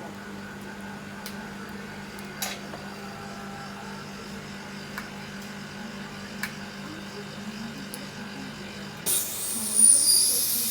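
A steady low hum with a few light clicks, then about nine seconds in a sudden loud hiss of blown air with a thin whistle in it.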